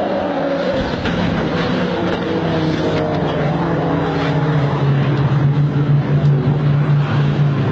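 A vehicle engine running, its pitch falling over the first few seconds and then holding steady, over road noise.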